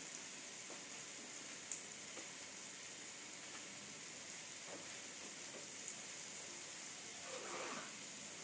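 Diced squash and cabbage sizzling in a wok, a steady, even hiss, with one faint click about two seconds in.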